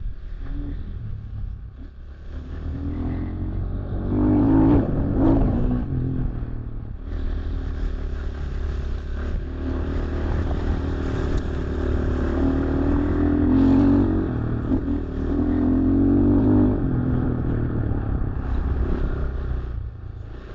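RXB 250XL dirt bike engine revving up and falling back again and again as the bike is ridden over a muddy trail, with some clatter. The revs are highest about four to six seconds in and again through the middle of the stretch.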